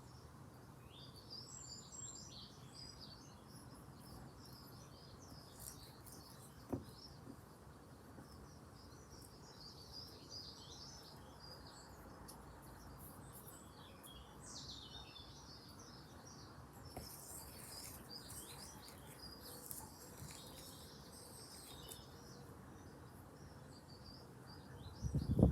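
Small songbirds singing and chirping throughout, many short high twitters and trills overlapping, with one soft knock about seven seconds in.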